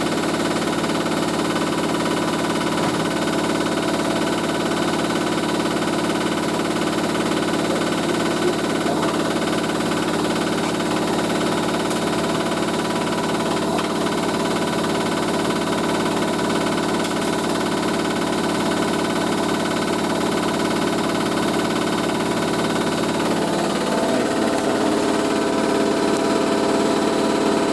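Hoover A3060 Electronic 1100 washing machine running on its spin cycle, a steady motor hum and whine with the drum turning. Its pitch rises near the end.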